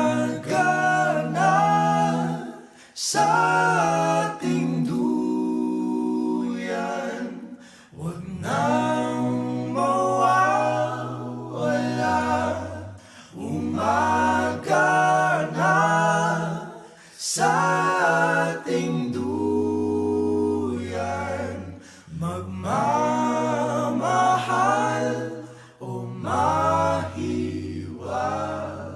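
Background music: unaccompanied vocal group singing in phrases a few seconds long, over low held bass notes.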